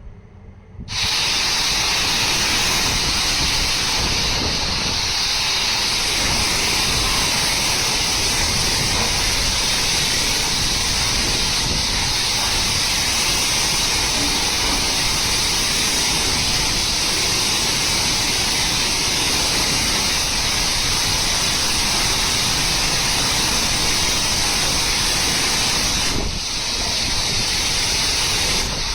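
Steady loud hiss of rushing water, starting about a second in and holding unbroken.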